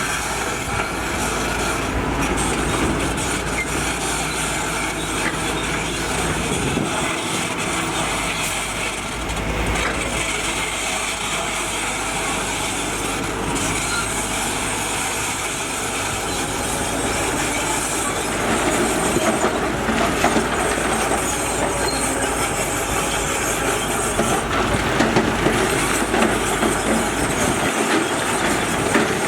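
Heavy tracked construction machine working: diesel engine running under load with steel crawler tracks clanking and squealing. It grows louder, with sharp metallic knocks, about two-thirds of the way in.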